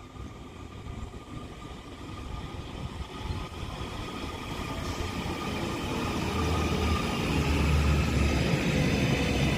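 Northern Class 331 electric multiple unit drawing into the station, its rumble and traction-motor whine growing steadily louder as it approaches the platform.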